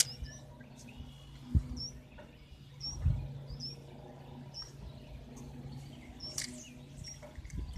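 A small bird chirping over and over, short high notes coming every half second to second, over a faint steady low hum. A couple of low thumps come in the first few seconds.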